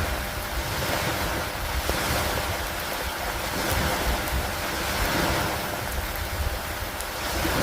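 Steady rain and wind over lake water: an even hiss that swells and eases every couple of seconds, with a low rumble underneath.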